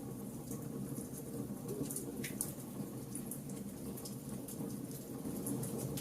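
Wood fire burning: a steady low rush of flames under irregular sharp crackles and pops from the burning wood, with one louder pop about two seconds in.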